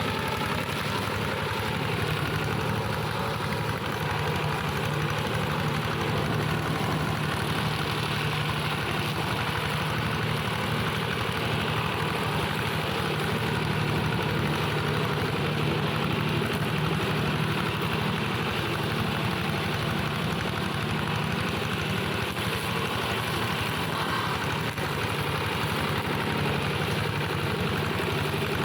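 Modified plough tractor set up as a brush mower, its engine running at a steady, unchanging speed.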